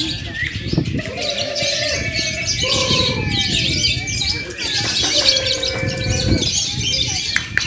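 Many caged lovebirds chattering and trilling at once, a dense, high-pitched chorus of quick chirps that never lets up, with a few lower held tones underneath at times.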